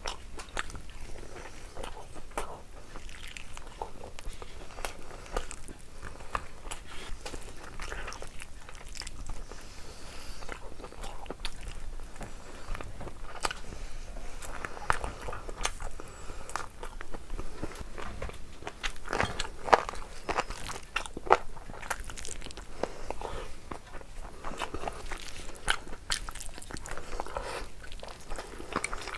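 A person chewing and biting mutton curry and rice eaten by hand, with many short, irregular mouth clicks and smacks.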